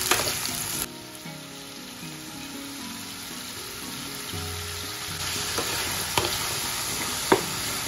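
Chicken pieces frying in hot oil in a pan, sizzling, with a utensil knocking sharply against the pan a few times as they are stirred. The sizzle drops away about a second in and builds up again after about five seconds.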